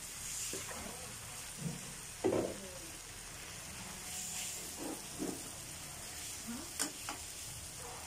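Raw shrimp frying in melted butter in a wok, a steady faint sizzle, with a few short knocks and scrapes of a metal spoon stirring them against the pan.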